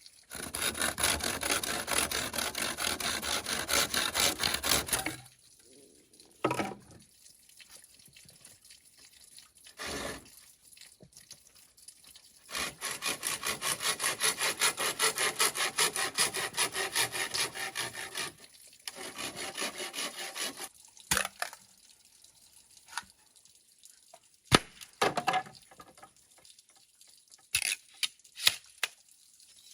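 Handsaw cutting through bamboo in rapid back-and-forth strokes, in two spells: one in the first five seconds, a longer one from about twelve seconds in. After that come scattered sharp knocks and clicks of bamboo pieces being handled.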